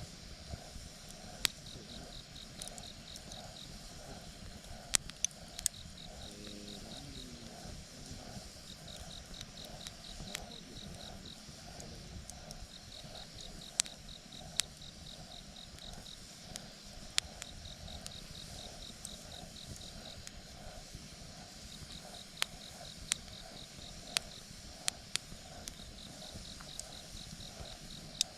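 Wood fire crackling, with a dozen or so sharp pops scattered irregularly. Behind it, insects chirp steadily in repeated pulsing trills.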